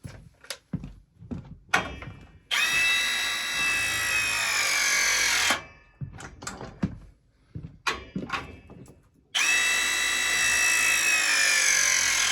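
Power tool motor running in two steady whines of about three seconds each, its pitch sagging slightly near the end of each run as it takes load, with clicks and knocks of handling between the runs.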